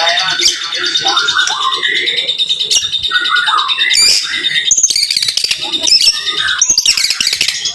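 White-rumped shama (murai batu) singing a dense, rapid string of varied notes: quick whistled glides, sharp clicking chips and high chirps that follow one another without pause, the 'tembakan' burst style of its song.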